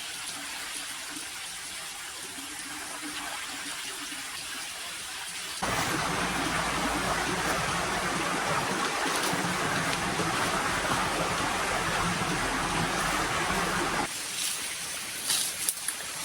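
Steady rush of flowing water that gets abruptly louder about five and a half seconds in, then abruptly quieter again near the end, with a few light clicks.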